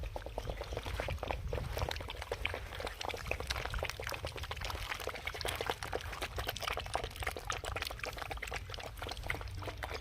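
Several street-dog puppies lapping liquid from a dish: a fast, continuous patter of small wet clicks from their tongues.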